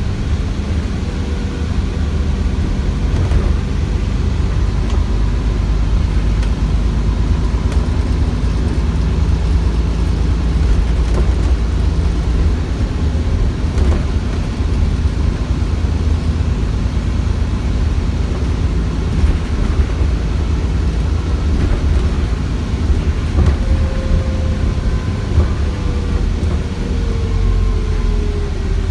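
ADL Enviro400 bus with a Cummins ISBe 6.7-litre diesel and Voith gearbox, running under way: a steady low rumble, with a whine falling in pitch over the last few seconds.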